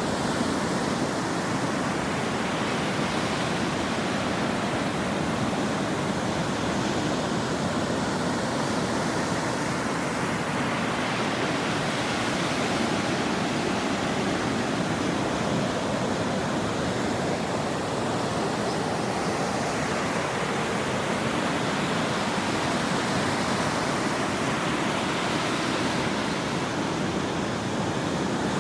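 Ocean surf washing on a shore: a steady, dense rush of breaking waves whose hiss swells and fades slowly about every ten seconds.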